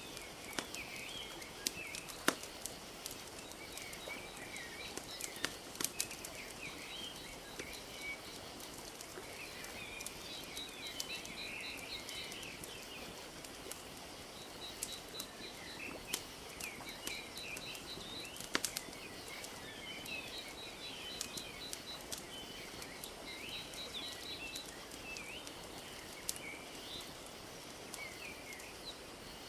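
Wood fire crackling with scattered sharp pops over a steady wash of lake water lapping. Small birds chirp and twitter throughout, with a few rapid trills.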